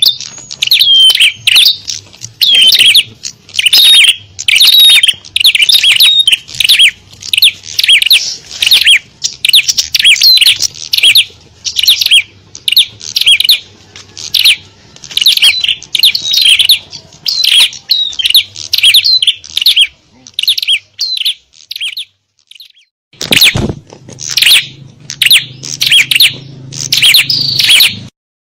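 Small songbirds chirping and twittering rapidly in a busy, dense chorus of high calls, as used in a lure-call recording for small birds. The chirping stops for about two seconds roughly three-quarters of the way through, then starts again.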